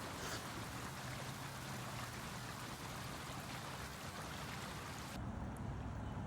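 Floodwater running across a yard and field: a steady rushing of water. About five seconds in the sound changes abruptly, losing its high hiss and growing slightly fuller and lower.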